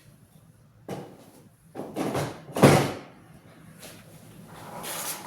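A few household knocks and a bang, like a door being handled; the loudest bang comes about two and a half seconds in.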